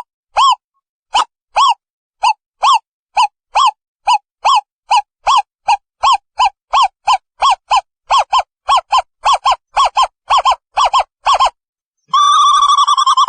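Owl calling: a series of short, clear hoots that speed up from about two to three a second, then break into a long, rapidly wavering trill about a second before the end.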